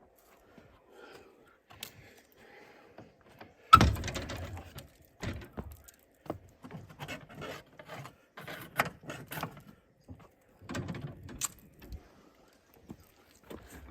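A heavy thunk about four seconds in, followed by a series of light clicks and knocks, and a second cluster of knocks near the end.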